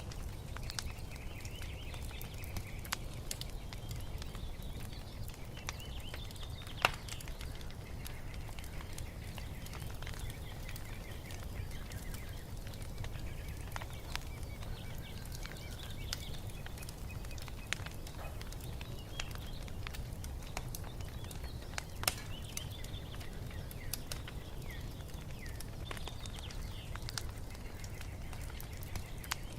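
Wood fire burning with a steady low rumble and scattered sharp crackles and pops, the loudest about 7 and 22 seconds in. Small birds chirp and sing throughout.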